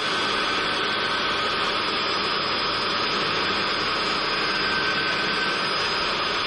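Magnetic drill (mag drill) starting suddenly and running steadily with a high whine, drilling a bolt hole through the steel of the doorway extension.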